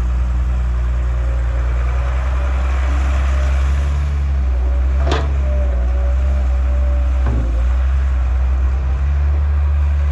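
Heavy diesel machinery running steadily as a JCB backhoe loader loads sand onto a TAFE tractor, with a low even engine drone and a faint wavering whine. Two sharp knocks come about five and seven seconds in.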